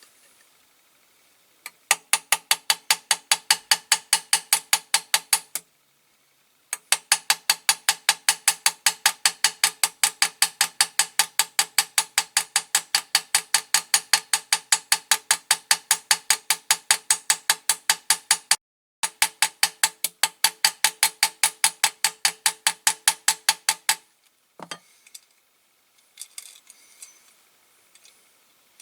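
Rapid, even metal-on-metal tapping at about five strikes a second, each with a short ringing tail, in three long runs with brief breaks. This is the ends of a diecast model's axles being peened ('pinned') over to hold the wheels on. One lone knock follows near the end.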